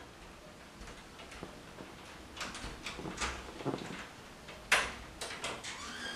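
Someone working the lock of the front door from outside: scattered clicks and rattles, then one loud, sharp clack near the end as the lock gives.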